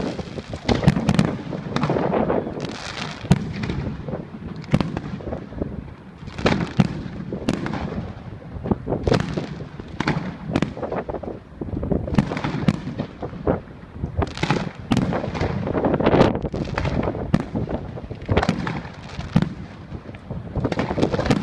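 A fireworks display: an irregular barrage of bangs and crackling bursts in quick succession, with no let-up.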